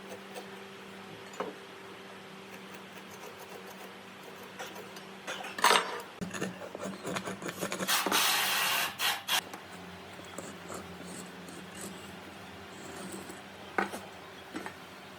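Woodworking sounds over a steady low hum: a sharp knock about six seconds in, then a scraping, rasping burst of a second or so, with a few lighter clicks before and after.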